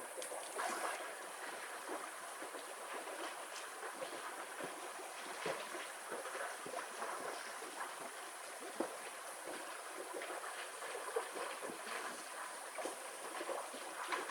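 Cooking over an open wood fire: a steady hiss with scattered small crackles and a few louder pops, about a second in, near the middle, and around two-thirds of the way through.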